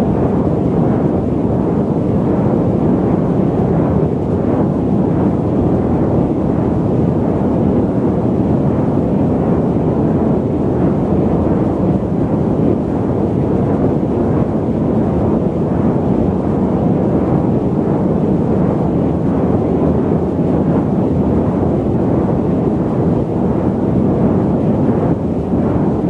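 Airliner cabin noise in flight: a steady, even, low-pitched rush with no change or separate events.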